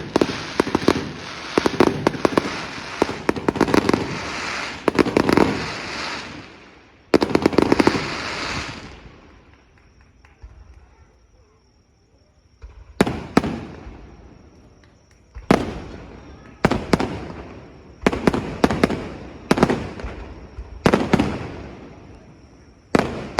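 Fireworks display: a dense barrage of rapid bangs and crackling for about the first seven seconds, ending in a big burst that dies away. After a short lull, single bursts follow every second or two, each with a sharp bang that trails off in echo.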